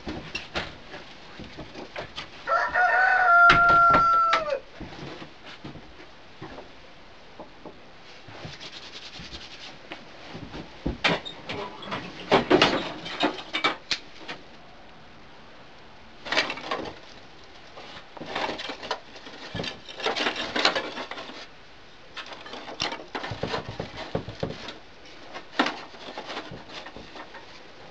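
A rooster crowing once, a loud drawn-out call about three seconds in, followed by scattered shorter calls and noises.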